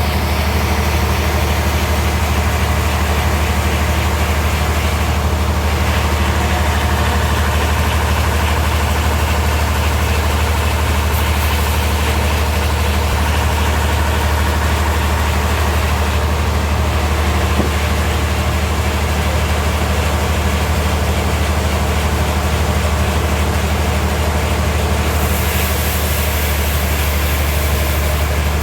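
Sawmill machinery running steadily: a loud, even engine drone with a deep hum that does not change.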